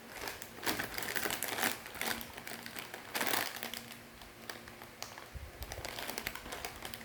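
Dry crackling and crunching from the crispy macaroni snack and its packet, in clusters about a second in and again just after three seconds.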